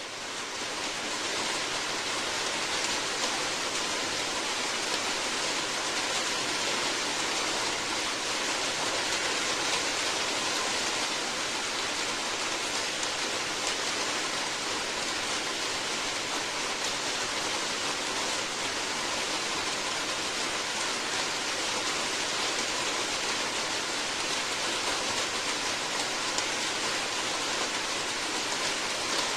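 Steady, dense rainfall, an even hiss with no single drops standing out. It fades up over the first second or so, then holds level.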